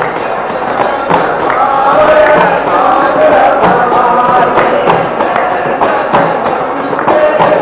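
Devotional bhajan music: a melodic line carried over a steady beat of hand percussion with jingling metal percussion.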